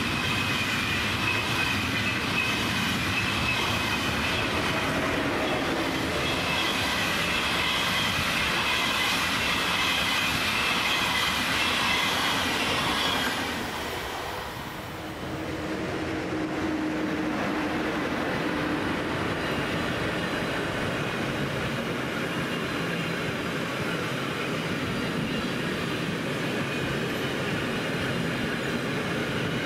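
ÖBB Railjet passenger coaches rolling past with a steady high-pitched wheel squeal. About halfway the noise drops briefly. Then a train of car-carrier wagons hauled by an ÖBB class 1116 Taurus electric locomotive arrives and rolls past with steady wheel and rail noise.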